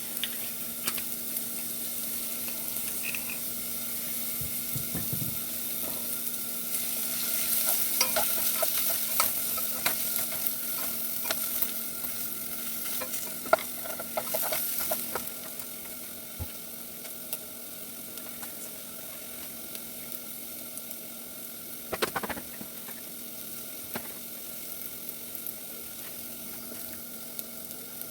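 Vegetables sautéing in oil in a pan, sizzling steadily, while a utensil stirs them with scattered clicks and scrapes against the pan. The stirring is busiest from about 7 to 15 seconds in, with one more scrape a little past 22 seconds.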